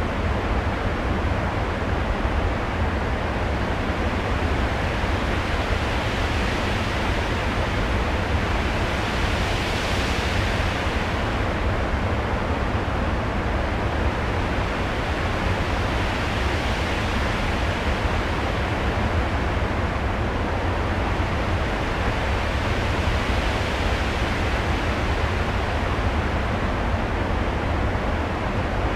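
Storm-like rushing noise from the stage soundtrack, like wind or surf, with a deep rumble underneath. It swells brighter about ten seconds in and again a little past twenty seconds.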